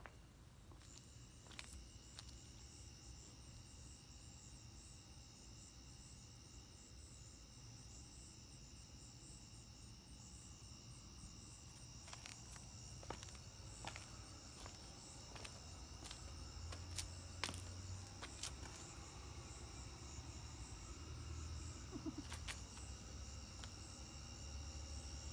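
Crickets and other night insects chirring steadily in several high-pitched bands, faint. Scattered sharp clicks come through, more of them from about halfway in, over a low rumble.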